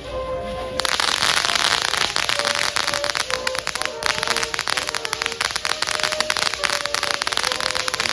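Consumer firework crackling: a dense, rapid mass of small pops that starts suddenly about a second in and keeps going.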